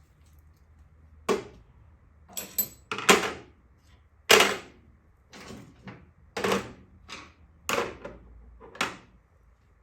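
Metal hand tools clanking as they are picked up and set down, about ten sharp knocks at uneven intervals.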